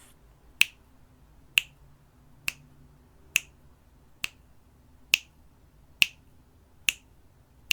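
Sharp single clicks at a steady pace, a little under one a second, eight in all, keeping time through a twelve-count breath hold.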